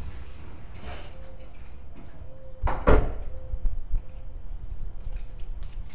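Chevrolet Silverado 5.3 V8 with catless long-tube headers and a Flowmaster 40 series muffler idling with a low exhaust rumble after a rev dies away. A door shuts with a double thud a little under three seconds in.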